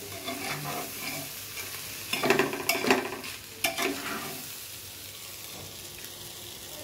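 A spoon stirring and scraping rice, dal and vegetables frying dry in oil in an open aluminium pressure cooker, over a steady sizzle. A few sharper scrapes of the spoon against the pot come about two to four seconds in, then the sizzle goes on alone.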